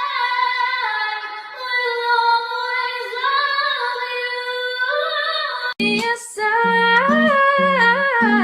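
A woman singing high, long held notes with a wavering pitch, unaccompanied. About six seconds in it cuts abruptly to another singer, now with a low instrumental accompaniment.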